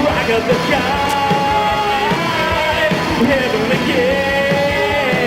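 Rock band playing live, with a loud, steady full band sound and a held lead line that bends in pitch over it.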